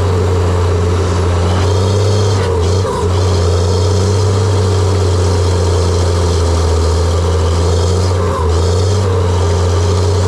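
John Deere 700J-II crawler dozer's diesel engine running steadily under load, with brief dips in the drone about three seconds in and again near the end, and a fainter wavering whine above it.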